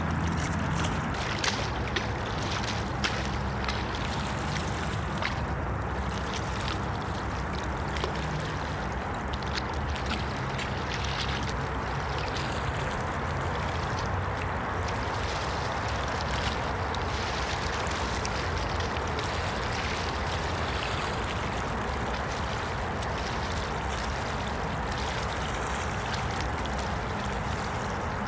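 Steady rushing of flowing water, with a constant low rumble underneath and a few faint ticks.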